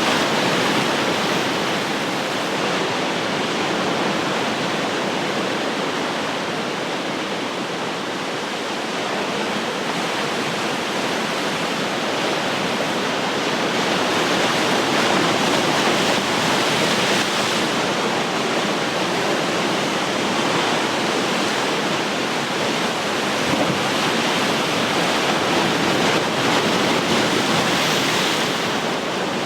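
Ocean surf: waves breaking and washing continuously along the shore, the roar swelling and easing every several seconds.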